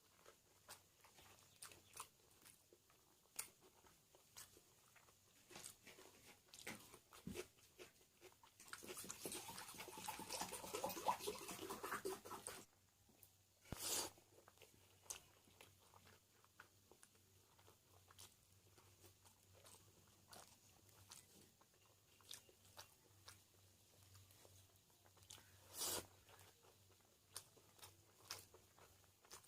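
Quiet chewing and biting, with scattered small clicks and crunches of someone eating biryani and salad close to the microphone. A louder stretch of noise starts about nine seconds in and lasts some four seconds, and two sharper clicks come later.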